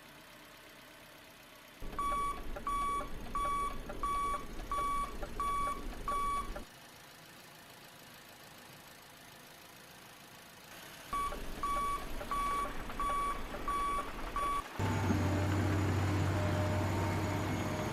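Reversing beeper of a remote-control truck, a steady high beep about one and a half times a second over the low running of its motor, in two runs with quiet pauses between. Near the end a louder, steady engine-like hum takes over.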